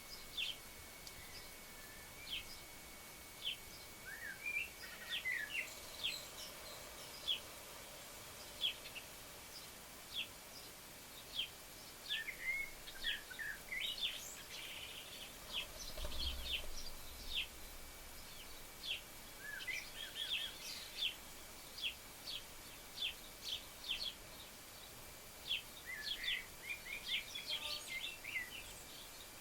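Small garden birds chirping: many short, high chirps in quick, irregular runs, with a few calls sliding upward. A faint steady high tone runs underneath, and there is a brief low rumble about halfway through.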